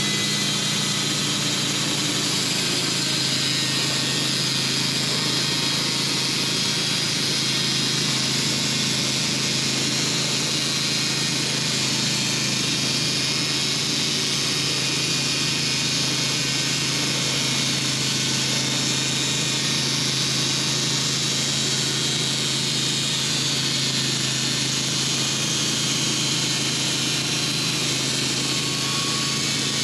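Sawmill engine running steadily at a constant speed, a low hum under a steady high hiss.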